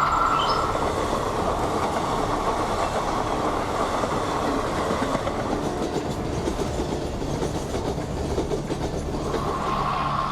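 Train running on the rails, a dense steady rumble and rail noise. A high steady tone sounds over it at the start, fades about half a second in, and comes back near the end.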